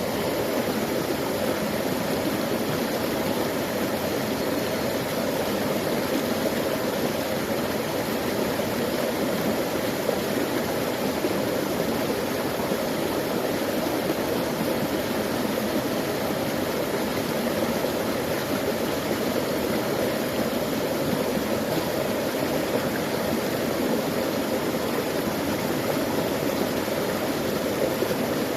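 A creek flowing steadily: an even, unbroken rush of water, fullest in the low-to-middle range.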